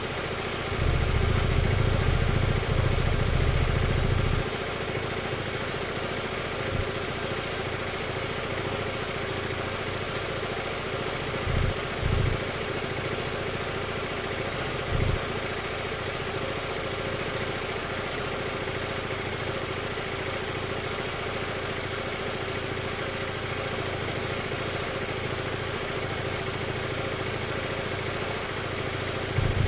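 Scooter engine idling steadily. Bursts of low rumble come through over it, one lasting about three seconds near the start, then two short ones near the middle and one at the end.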